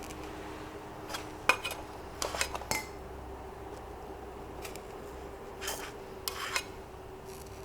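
Metal cutlery clinking and scraping against cookware, in several short clusters of clinks a second or two apart.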